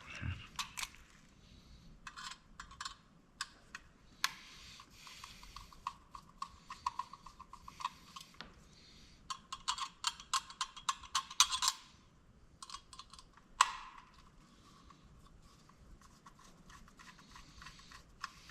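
Small screwdriver working tiny screws out of a security camera's lens assembly: bursts of rapid, light clicking with pauses between them, and a single sharper click a little past two-thirds of the way through.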